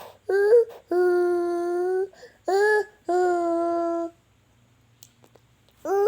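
A toddler's voice making long, wordless vocal sounds: twice a short rising note followed by a steady held note about a second long, then a pause of about two seconds before another note begins at the very end.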